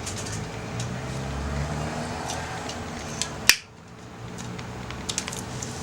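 Small wood fire of branches and scrap wood crackling, with scattered pops and snaps. About three and a half seconds in comes a loud sharp snap, after which the background noise drops suddenly.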